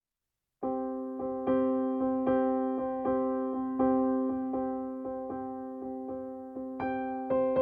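Intro music on a piano-like keyboard: repeated chords struck about once or twice a second, each fading before the next, starting about half a second in, with higher notes joining near the end.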